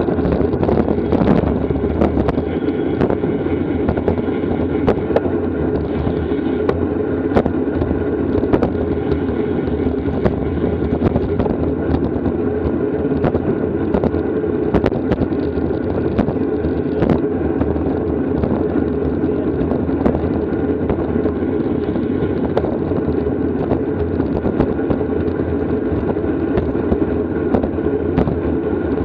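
Steady rush of wind and road noise from a road bicycle ridden at race speed, with frequent sharp clicks and knocks from the bike over the road surface.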